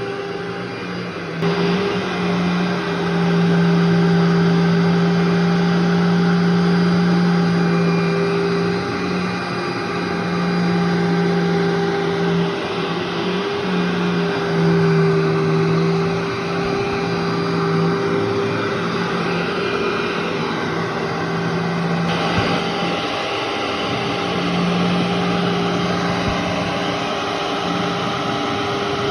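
Vacuum cleaner running continuously, its motor a steady hum and whine over a rush of suction noise, the pitch wavering slightly as it works. It gets louder about a second and a half in.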